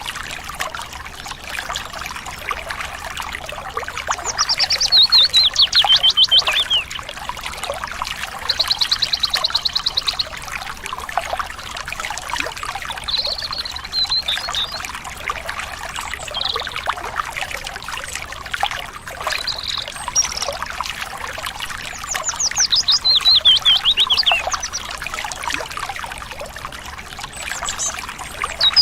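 Birds singing over a steady trickling stream. One bird sings a run of rapid notes falling in pitch, about four seconds in and again near the end; a rapid, even high trill comes at about nine seconds, with short chirps between.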